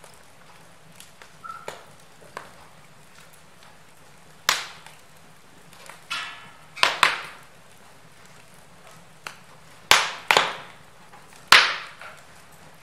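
Wood fire in a fireplace crackling: faint small ticks, with several sharp, loud pops of burning logs scattered through, the loudest in the second half.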